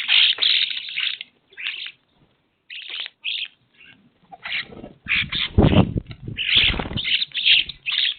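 Birds calling in many short bursts in quick succession, with some low thumps about five to seven seconds in.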